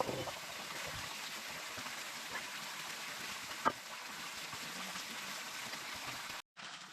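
Steady hissing outdoor background noise, with a few faint clicks, cutting off abruptly near the end.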